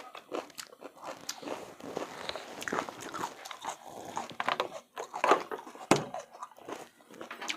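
Close-miked mukbang eating sounds: wet chewing and lip smacking with irregular sharp clicks, the loudest a crisp click about six seconds in.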